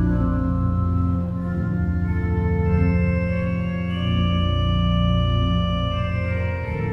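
Organ playing a slow, quiet-paced piece. Sustained chords are held without fading and change every second or two over a steady bass.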